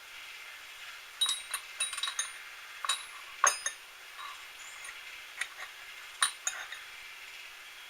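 A dozen or so light metallic clinks in quick clusters, like small steel tools or parts being handled and set down, over a faint steady hum.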